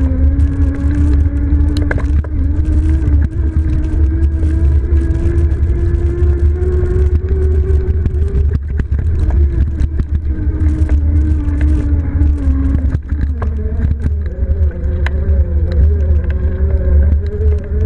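Electric fat-tire bike on a trail ride, with heavy wind rumble on the microphone and a whining tone that slowly rises and falls with riding speed.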